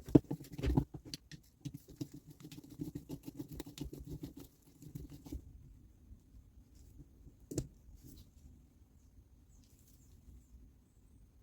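Small parts and tools being handled on a workbench: quick light clicks and rustling, with a few louder knocks at the start, stopping about five seconds in, then one more click later.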